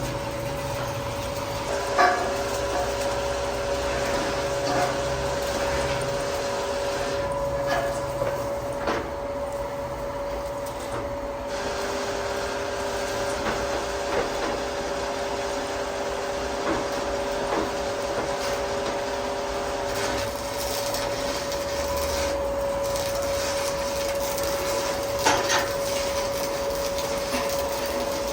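Heavy boring machine running with a steady hum, a lower second tone cutting in and out twice. A few sharp metal knocks and clanks stand out, the loudest about two seconds in.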